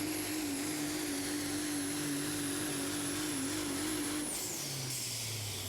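Diesel pulling truck engine running after its pull, with a high steady turbo whine that glides down in pitch about four seconds in as the engine winds down.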